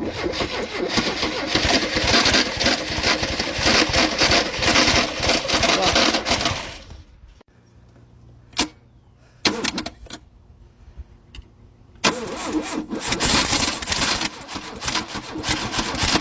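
A 1971 Opel GT's engine being cranked over by its starter motor for about seven seconds, without starting. The cranking stops, a few clicks follow, and it cranks again from about twelve seconds in.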